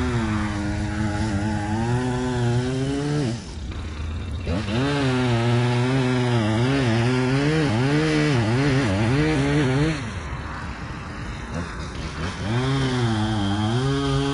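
Echo two-stroke chainsaw running under load in a cut, its engine speed repeatedly rising and sagging. It drops back twice to a quieter, lower running: briefly about three seconds in, and for about two seconds in the second half.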